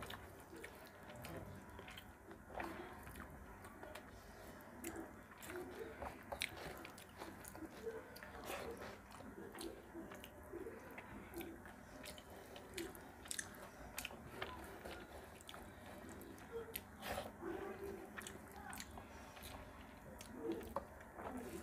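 Close-up mouth sounds of a person eating rice and fish curry by hand: chewing and lip-smacking with many irregular small wet clicks.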